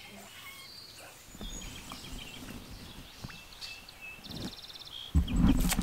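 Small birds chirping along a river, with scattered short calls and a quick buzzy trill a little past the middle. A louder low rumble comes in near the end.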